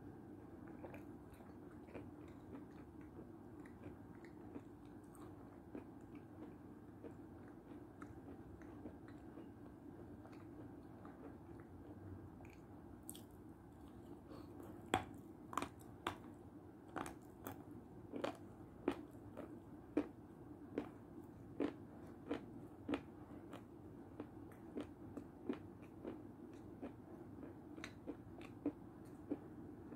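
Close-miked eating sounds: mouth clicks and chewing of spoonfuls of milk soup with meringue, faint at first, then sharp clicks coming about one to two a second through the second half.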